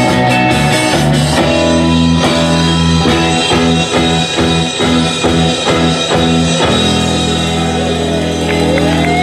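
Live rock-and-roll band playing, with guitar and drum kit. About two-thirds of the way through the drumming stops and a held chord rings on, as at the close of a song.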